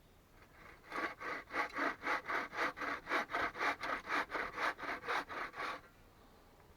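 Hand saw cutting wood in quick, even back-and-forth strokes, about four a second. The sawing starts about a second in and stops about a second before the end.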